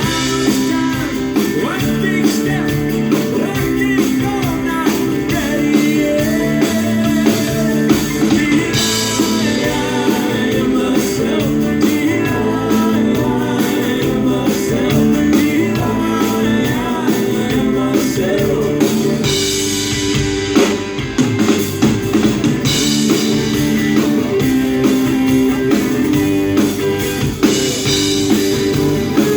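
Live band playing a rock song, with guitars, a drum kit and a singing voice.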